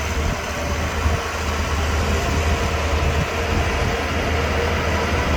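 Shantui DH17C2 bulldozer's diesel engine running steadily with a deep, continuous hum, slowly growing a little louder.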